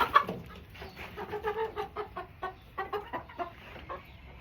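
Chickens clucking, many short clucks in quick succession from a small flock of hens, with one loud sharp note just after the start.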